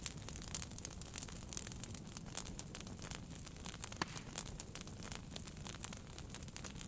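Wood fire burning in a fireplace: irregular small crackles and pops over a low steady rumble, with one sharper pop about four seconds in.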